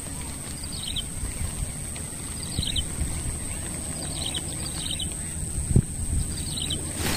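A bird calling in small clusters of short high chirps, five times at irregular intervals over a steady low rumble. A single dull thump comes near the end.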